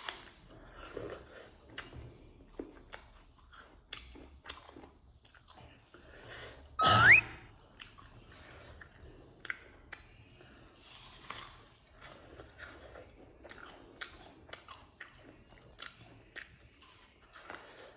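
Close-up chewing of raw apple pieces: crisp bites and crunches one after another. About seven seconds in there is one brief, much louder sound whose pitch rises.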